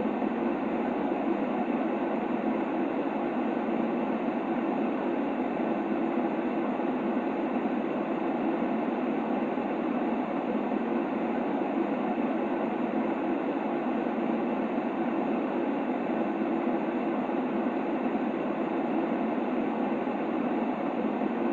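Steady sleep noise for a baby, a constant low, muffled hiss with no change or break.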